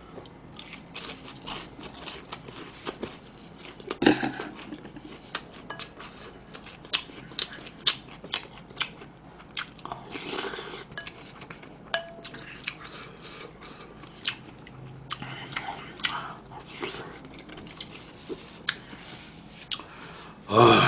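Close-miked crunching and chewing of crunchy fried food, breaded fried pork cutlet, with many sharp crisp bites scattered throughout, a strong one about four seconds in. A loud noisy sound comes at the very end.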